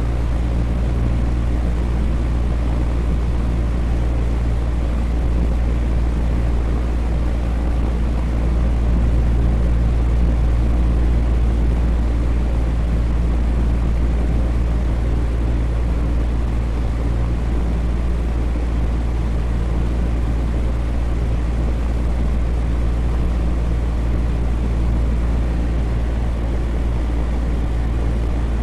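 Electric fan running steadily: an even rush of moving air over a low, constant hum, with no change in speed.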